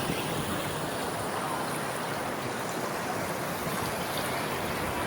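Floodwater rushing past in a steady, even roar of flowing water.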